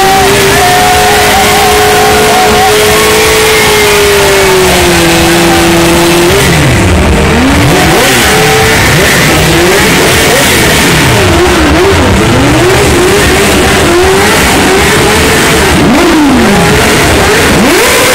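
Motorcycle engines revved hard and very loud: one held at high revs for about six seconds, then repeated quick revving up and down, with engine pitches rising and falling over one another.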